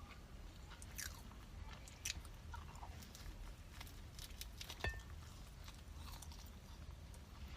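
Close-up chewing with crisp crunching and mouth clicks as fried breakfast food is eaten, a few sharper crunches standing out among quieter chewing.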